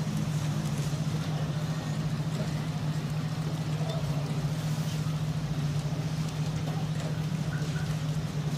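A motor vehicle's engine idling steadily: a continuous low, even hum.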